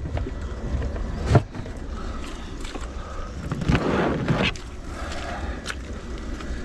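A power cable being handled and stowed in an RV storage compartment, with a sharp knock about a second and a half in and a rustling scrape around four seconds. Steady rain noise runs underneath.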